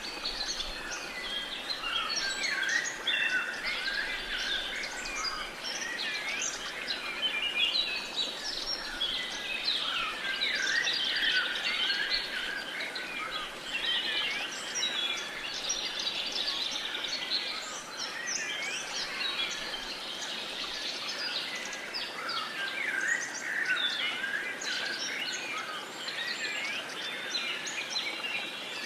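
Many songbirds singing at once: a dense, unbroken chorus of overlapping chirps and trills over a faint steady hiss.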